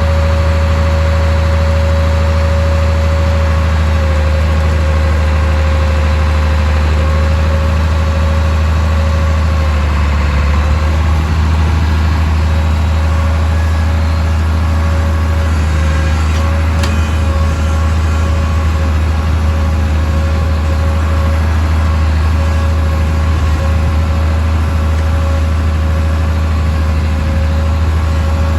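Tractor engine running steadily at a constant speed: a deep drone with a steady whine above it.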